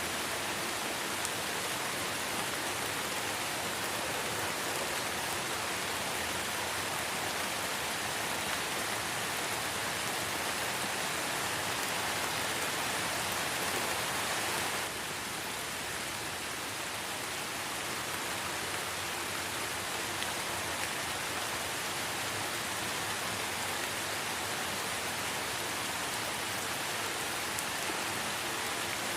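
Light rain falling steadily in a forest: an even hiss of many small drops, which drops slightly in level about halfway through.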